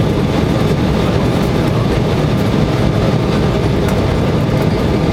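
Embraer 170 jet's twin GE CF34 turbofan engines running steadily, a constant, even noise heavy in the low end with faint steady tones above it.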